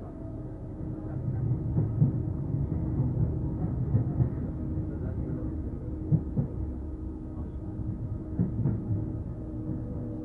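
Docklands Light Railway train running between stations, heard inside the carriage: a steady low rumble of wheels on track with scattered knocks and a steady hum from the traction motors.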